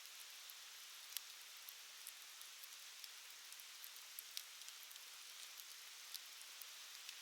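Wood campfire crackling faintly: a steady soft hiss with scattered sharp pops and snaps, a louder pop about a second in and another a little past the middle.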